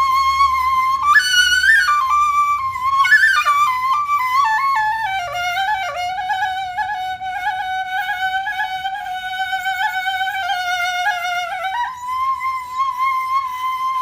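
Background music: a solo flute playing a slow melody over a faint low drone, with quick ornamented runs that step down to a long low note with vibrato, held for about six seconds, then rising again near the end.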